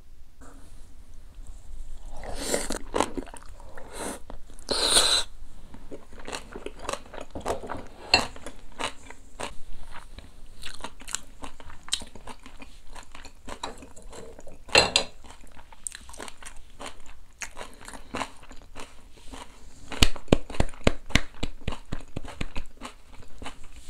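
A person biting and chewing a big mouthful of boiled duck with sticky rice and kimchi: many irregular wet clicks and crunches, coming thicker and faster near the end.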